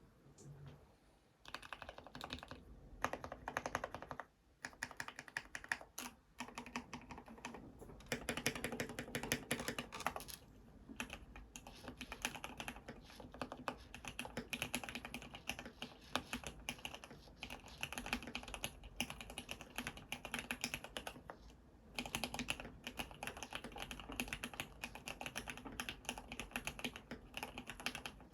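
Typing on a full-aluminium CNC mechanical keyboard with lubed Cherry MX Red linear switches under PBT keycaps: fast runs of key strokes with a few brief pauses, including a short gap a little past four seconds and another near the 22-second mark.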